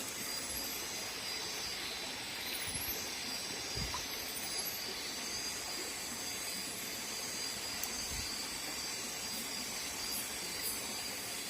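Night-time insect chorus: steady high-pitched trilling with repeated short rising chirps, over a steady hiss.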